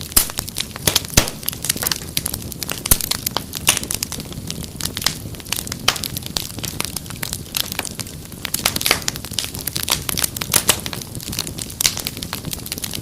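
Wood fire crackling in a fireplace: a dense, irregular run of snaps and pops over a low rumble, with a couple of sharper pops in the first three seconds.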